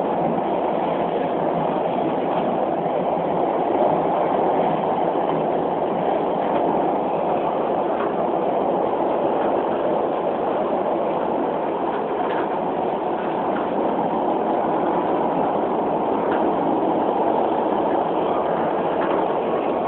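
Beijing Subway Line 4 train running between stations, heard from inside the car: a steady rumble of wheels on rail with a few faint clicks.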